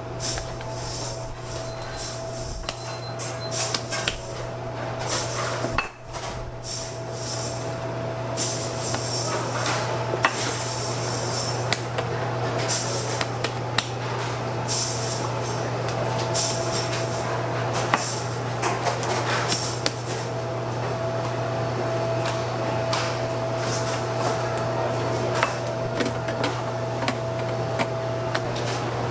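Irregular knocking and clattering over a steady low hum.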